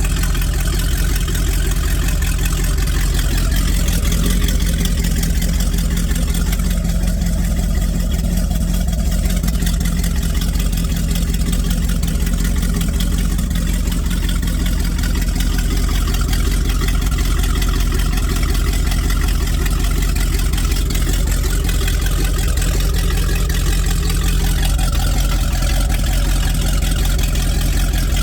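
Mercruiser 454 7.4-litre big-block V8 boat engine idling steadily with a deep, even note.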